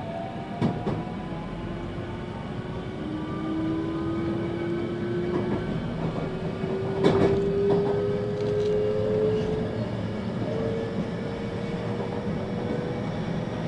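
Ride noise in a 521-series electric train: the wheels rumble on the rail and the motor and inverter whine in two tones that climb slowly as the train gathers speed. Two sharp clicks come through, one about a second in and one about seven seconds in.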